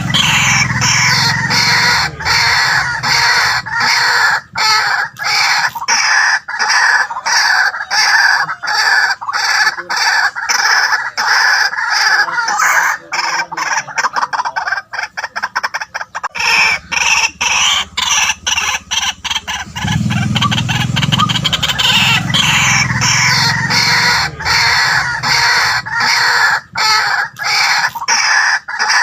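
White-breasted waterhens calling: a continuous run of loud, rapidly repeated harsh notes.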